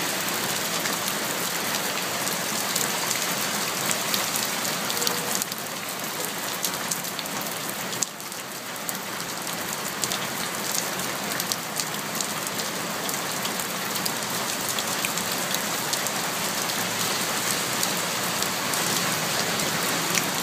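Heavy rain pouring and splashing into standing water on the ground, a dense steady patter of drops. It eases briefly about eight seconds in, then builds back.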